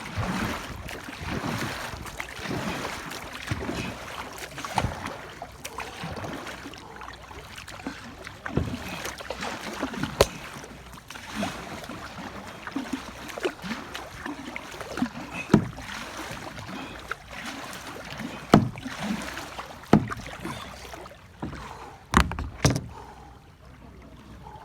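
Kayak paddling in fast-flowing floodwater: paddle strokes splashing over steady rushing water, with sharp knocks now and then.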